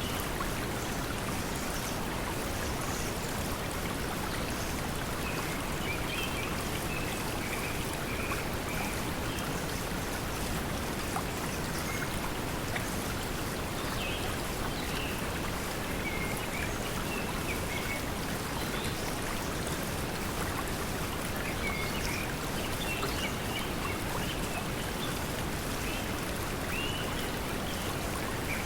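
Steady pink noise blended with flowing stream water, with small bird chirps coming and going.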